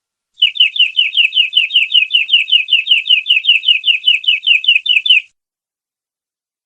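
Domestic canary singing one long trill of rapidly repeated down-slurred notes, about five a second, that starts about half a second in and cuts off after about five seconds.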